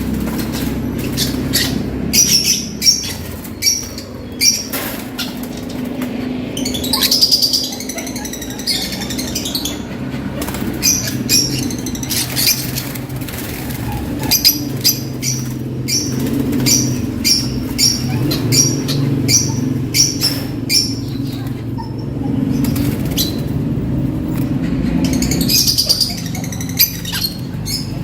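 Young lovebirds flapping their wings and giving short high chirps while being handled and moved between cages, with repeated clicks and rattles over a steady low hum.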